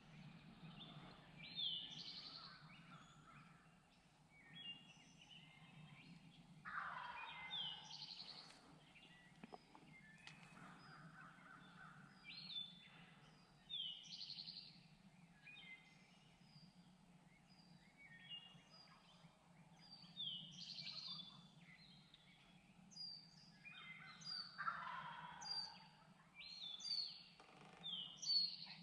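Wild turkeys gobbling twice, about seven seconds in and again near the end, among many songbirds chirping, over a steady low hum.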